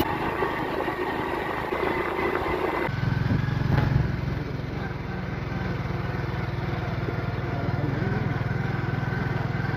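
Motorcycle engine running steadily with an even low pulse; the sound shifts about three seconds in and the engine note grows fuller.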